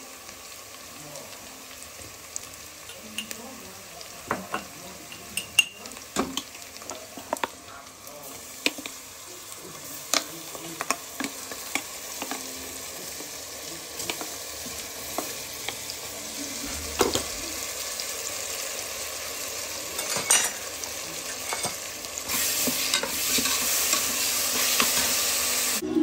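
Onions, green chillies and whole spices sizzling in hot oil in an aluminium pressure cooker, with a utensil scraping and clicking against the pot as they are stirred. The sizzle grows louder near the end.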